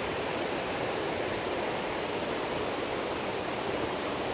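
Steady rushing roar of the Agate Falls waterfall, an even wash of falling water with no breaks.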